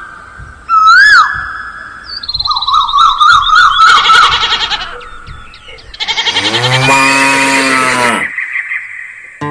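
Farm animal calls: high, wavering pitched cries in the first half, then a long, deep cow moo from about six seconds in.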